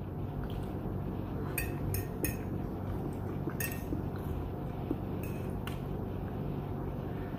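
Cutlery clinking against a dish several times, short sharp clicks spread out over a few seconds, over a steady low hum.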